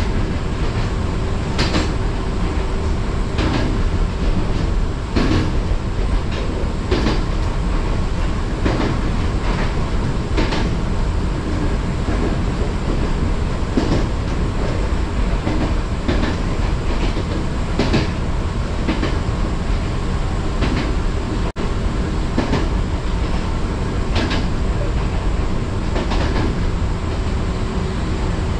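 Fujikyuko Line electric train running along the track: a steady rumble and hum, with the wheels clicking over rail joints every second or two. The sound cuts out for an instant about three-quarters of the way through.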